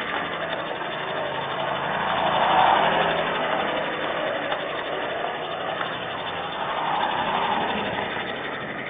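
Road traffic passing: vehicles swell up and fade away one after another, about three or four seconds apart.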